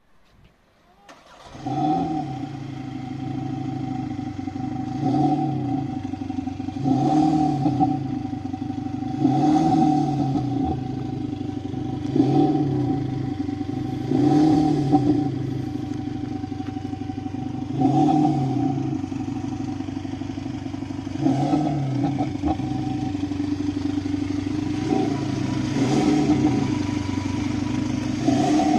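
Volkswagen Golf GTD's four-cylinder turbodiesel engine starting about a second in, then idling with short throttle blips every two to three seconds, each rev rising and falling back to idle.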